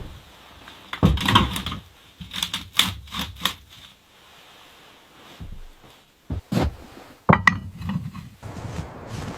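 A series of irregular knocks and clatters with some rustling, in small clusters separated by quieter pauses.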